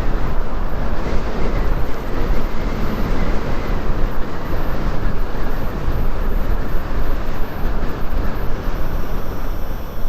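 Steady rush of wind and engine noise from a Chinese motorcycle under way, heaviest in the low rumble, with no single event standing out.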